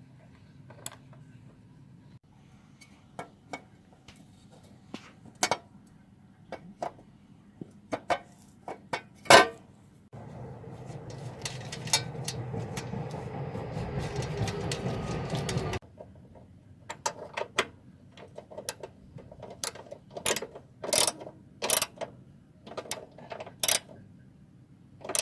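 Scattered metal clicks and knocks of hand tools and engine parts during top-end assembly of a motorcycle engine. In the middle there is a steady mechanical whirr lasting about six seconds, which starts and stops abruptly.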